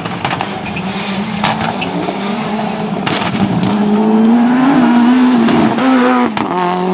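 Rally car engine at high revs, its pitch climbing and growing louder, then dropping sharply about two-thirds of the way through as it changes gear. Several sharp cracks cut through the engine sound.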